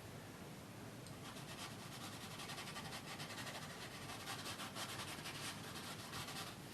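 Bristle brush scrubbing and dabbing oil paint onto a canvas in a quick run of short, repeated strokes, starting about a second in.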